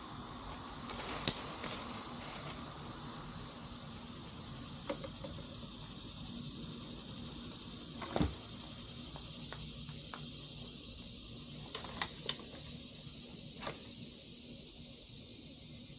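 A few scattered clicks and knocks over a steady background hiss, three of them close together about three-quarters of the way through.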